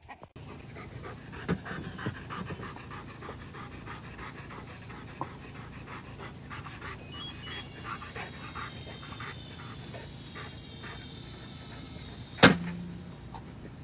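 A dog panting steadily, with one sharp knock about twelve and a half seconds in.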